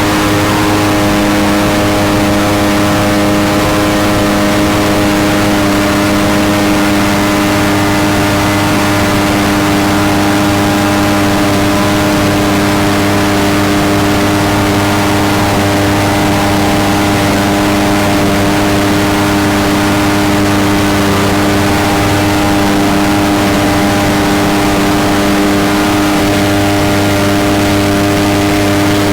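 Mini jet boat's small engine running at a steady cruising pace, its pitch holding nearly constant, with a slight change around a second in and again near the end.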